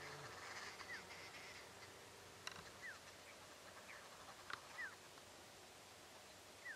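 Quiet background with a bird giving short, falling whistled calls about every two seconds, and a couple of sharp clicks.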